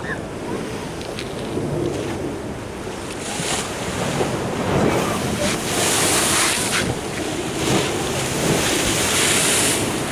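Ocean surf washing in against the shore, surging several times, with wind buffeting the microphone.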